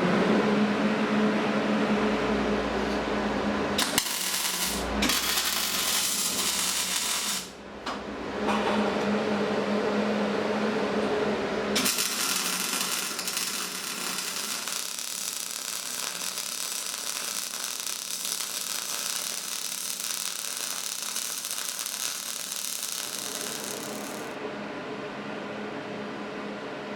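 Electric power tool motor running at a steady pitch while it works steel, with long stretches of harsh grinding hiss: the first starts about four seconds in, there is a short break around eight seconds, and the last carries on until near the end.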